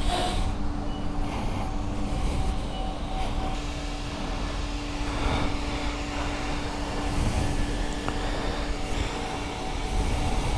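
Steady low engine rumble of an engine idling, with a faint steady hum above it.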